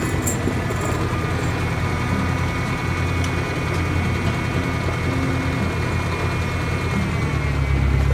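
A vehicle engine running steadily at low speed, its low rumble growing louder near the end.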